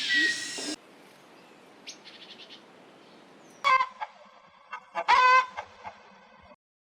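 Chickens calling: a few faint quick clucks, then two loud, short, harsh squawking calls about a second and a half apart. Under a second in, a loud noisy sound cuts off abruptly.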